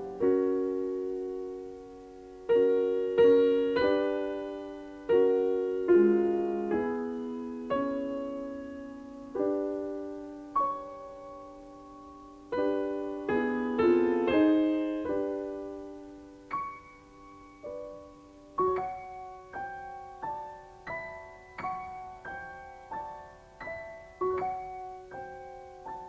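Solo piano playing classical music: full chords struck about once a second and left to ring and fade, giving way about two-thirds through to quicker, lighter single notes over a held lower note.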